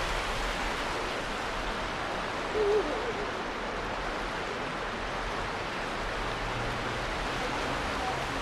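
Steady rushing of flowing water, with one brief low wavering hoot-like call about two and a half seconds in.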